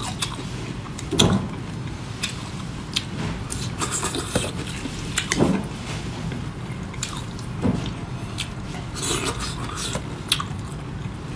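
Wet chewing and mouth smacking of someone eating raw marinated shrimp, with scattered short clicks.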